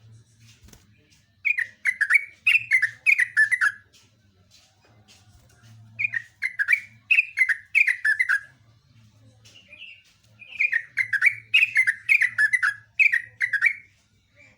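Yellow-vented bulbul (trucuk) singing: three phrases of rapid, bubbling, downward-sliding notes, each about two to three seconds long, with short pauses between.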